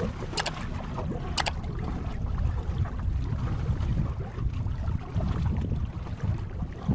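Wind buffeting the microphone aboard a small boat on open water, a loud uneven low rumble with water noise underneath. Two short sharp ticks come about a second apart near the start.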